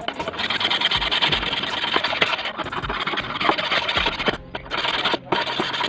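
Rust being worked off steel scissors blades with an abrasive: a steady, harsh scraping that breaks off briefly twice near the end.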